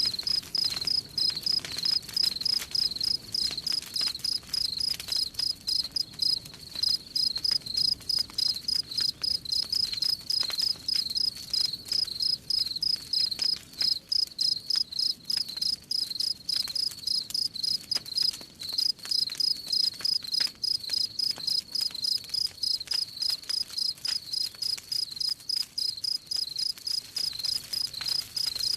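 Crickets chirping in a steady, even rhythm, with faint fire crackles beneath.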